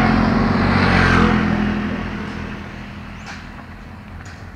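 Motorcycle engine running, loudest at first, then fading away over the next couple of seconds.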